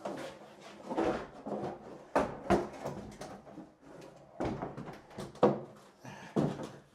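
Old bathroom vanity cabinet being worked loose and pulled out: a string of knocks and bumps with scraping in between, the loudest about two and a half and five and a half seconds in.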